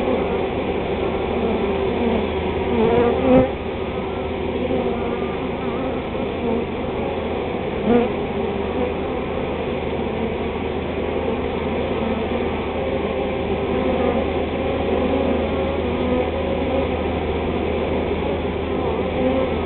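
A large swarm of honey bees buzzing steadily in a dense, continuous hum, with two brief louder swells, about three and eight seconds in, as bees pass close.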